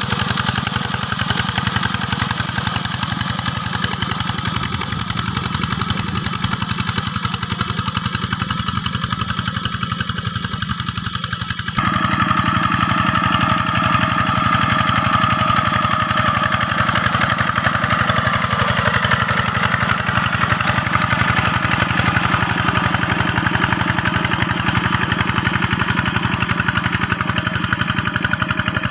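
Single-cylinder diesel engine of a two-wheel hand tractor running steadily with an even firing rhythm; the sound changes abruptly about twelve seconds in, taking on a brighter clatter.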